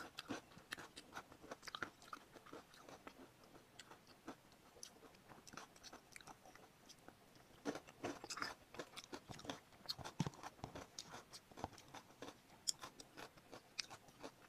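Close-miked chewing of food: a quiet, irregular run of crisp crunches and wet mouth clicks, coming thicker about halfway through.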